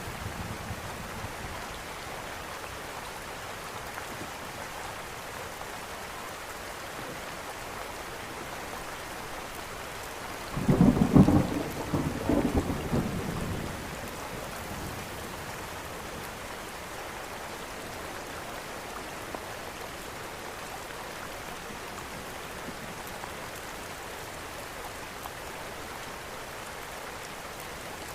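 Steady rain falling, with a loud thunderclap about ten seconds in that rolls on for around three seconds. The tail of an earlier thunder roll is dying away at the start.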